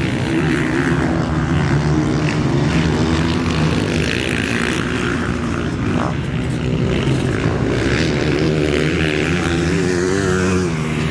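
Motocross bikes' engines running on the track, the pitch rising and falling as the riders work the throttle.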